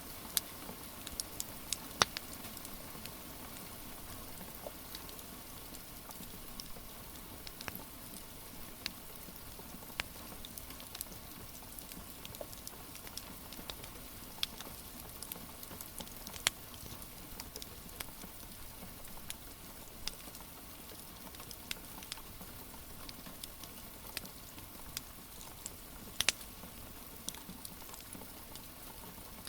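Wood fire crackling, with irregular sharp pops, over a steady hiss of rain.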